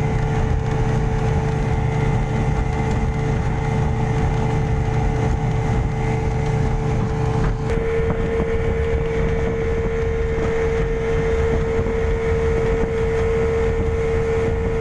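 Speedboat engine running steadily at speed, a loud drone with a strong held whine. About halfway through, the note steps slightly higher and the low rumble thins out, as with a change of throttle.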